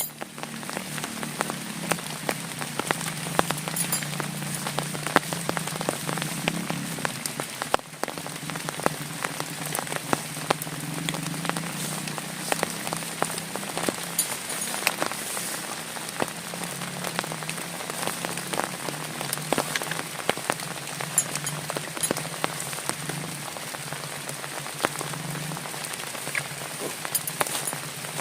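Heavy rain falling steadily, with many sharp separate drop hits over a dense wash of rain noise and a steady low hum underneath.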